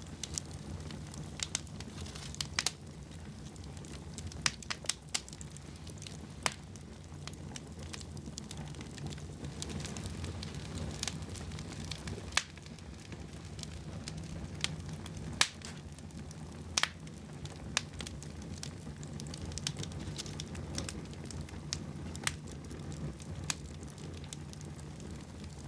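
Wood fire burning in a fireplace: a steady low rumble of flames with irregular sharp crackles and pops, a few of them louder, every second or two.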